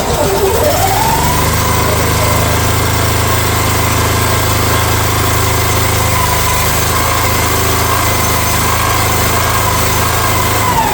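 Future FT15 mini excavator's engine running just after a cold start on choke at mid throttle. Its speed dips and then picks up in the first second, and it runs steadily. Near the end its speed falls as the throttle is dropped too soon for the cold engine.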